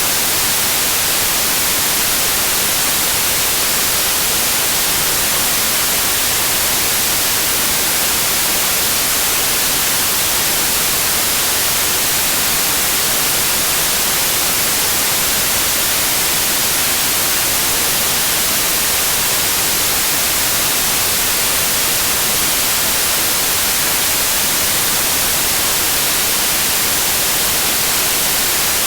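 Steady synthetic white noise: an even, constant hiss, strongest in the high frequencies, with no change or events.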